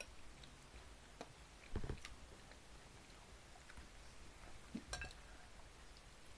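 Quiet chewing of pizza, with a few soft clicks and knocks: a cluster around the first two seconds and one more about five seconds in.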